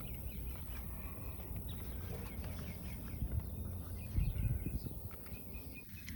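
Faint bird chirps over a steady low rumble, with a low bump about four seconds in.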